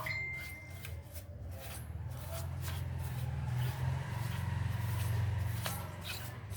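A large brush sweeping dust off a desktop motherboard in repeated short scraping strokes, over a steady low hum. A sharp click with a brief ringing tone right at the start.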